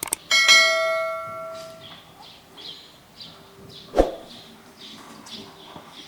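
A bell struck once, ringing out with several steady tones and fading over about a second and a half. A single sharp knock follows about four seconds in.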